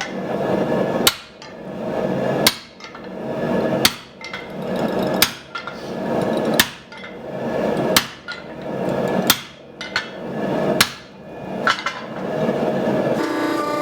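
Blacksmith's hammer striking steel, single heavy blows spaced about a second and a half apart, over a steady rushing noise. The blows stop near the end and a steady hum takes over.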